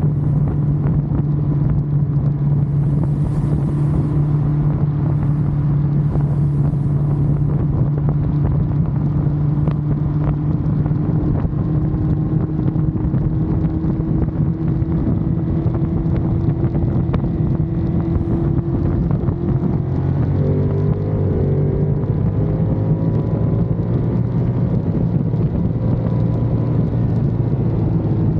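Ducati Monster's V-twin engine running at a steady riding speed, with wind buffeting the microphone. About two-thirds of the way through, the engine note shifts slightly lower.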